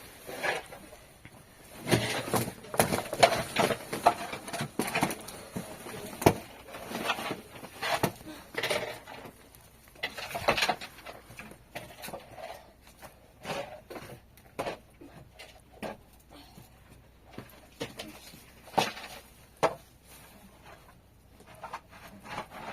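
Irregular knocks and clattering of hard objects being handled, with a few sharp clicks. It is busiest in the first half and turns sparse near the end.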